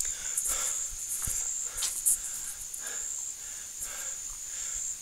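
Steady high-pitched chorus of insects, with scattered soft rustles and knocks.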